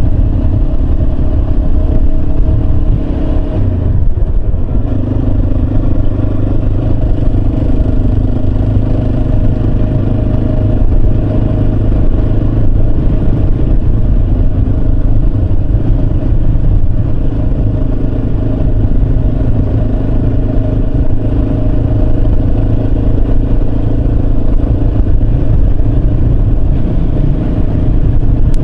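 Yamaha Serow 250's air-cooled single-cylinder engine running steadily while riding, its note dipping briefly about four seconds in before settling again.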